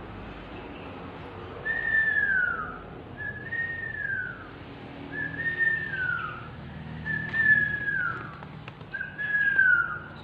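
Five clear whistled notes, each sliding down in pitch and lasting about a second, repeated evenly about every two seconds.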